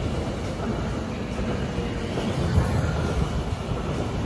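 SBB electric passenger trains rolling past on the double track, a steady low rumble of wheels on rails, with a brief knock about halfway through.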